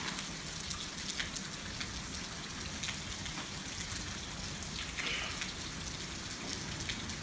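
Steady rain falling, with scattered close drops landing as sharp ticks.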